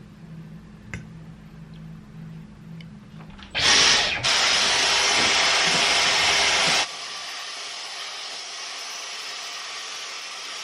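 A motor-driven electric appliance blowing air switches on about three and a half seconds in with a loud, steady rush. About three seconds later it drops to a lower, quieter setting and keeps running.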